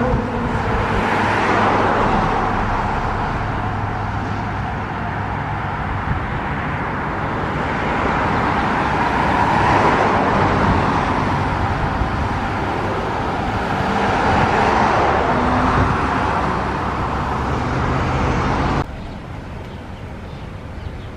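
A car driving, with steady engine hum and road noise that drops suddenly to a quieter level near the end.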